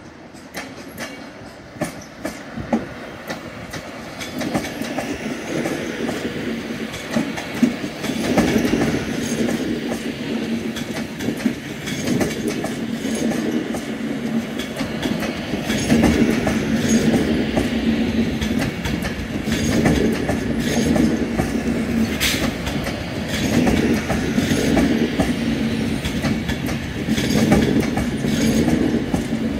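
Class 390 Pendolino electric train rolling past close by, its wheels clacking over rail joints and points. It grows louder over the first several seconds as it draws alongside, then runs on steadily with a swell every few seconds as each coach's wheels cross the joints, and one sharp click about two-thirds of the way through.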